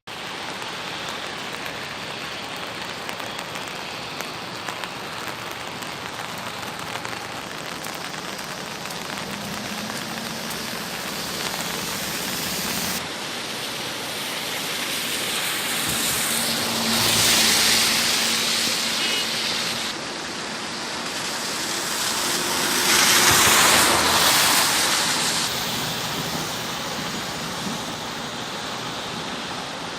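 Steady heavy rain. Twice, about halfway through and again about three-quarters through, the noise swells louder with a low engine hum, like vehicles passing on a wet road.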